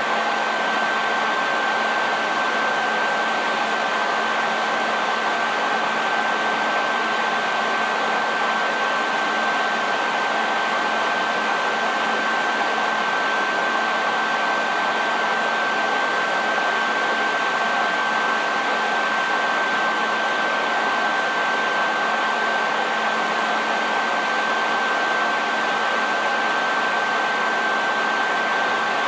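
Hair dryer running steadily: an even rush of air with a thin high whine and a low hum, unchanging throughout.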